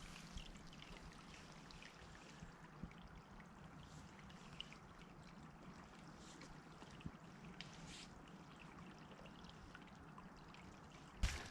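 Faint steady trickle of running water, with scattered light ticks and one sharp knock near the end.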